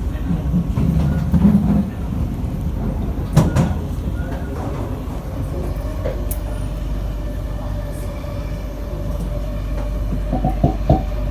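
Interior of a Kawasaki & CSR Sifang C151B metro train carriage under way: steady low rumble of the running train with a few knocks over the track. About halfway through, a steady hum sets in and holds, and a quick run of clacks comes near the end.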